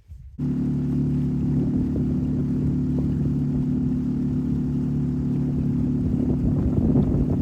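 Boat motor running at a steady speed. It starts abruptly about half a second in and holds an even, unchanging pitch.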